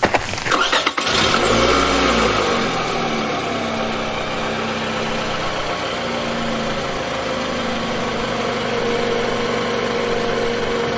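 A car engine starts up about a second in, then runs steadily.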